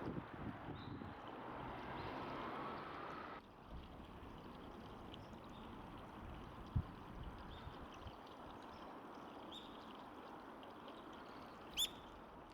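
Small songbirds giving short, high chirps here and there, with one louder, clearer call near the end, over a steady rushing background noise. There is a single low thump about halfway through.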